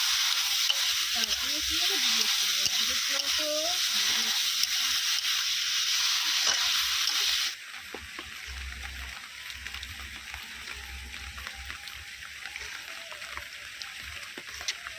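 Hot oil sizzling steadily in a frying pan, cutting off abruptly about seven and a half seconds in; a much quieter hiss with a low rumble follows.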